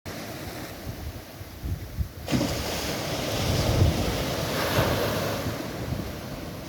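Surf with wind buffeting the microphone. A wave surges in a little over two seconds in, and the rushing noise stays louder after it.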